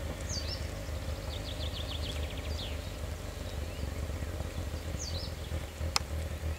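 A small songbird singing outdoors: short high phrases, each a quick falling note followed by a rapid run of repeated notes, heard twice, over a steady low rumble. A single sharp click sounds about six seconds in.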